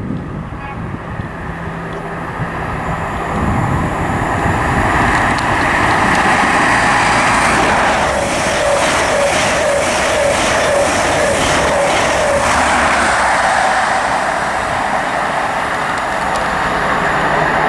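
An HST (InterCity 125) passing through at speed: its diesel power cars and coach wheels on the rails. The sound builds over the first few seconds, is loudest in the middle with a run of regular clicks as the coaches go by, and carries on steadily to the end.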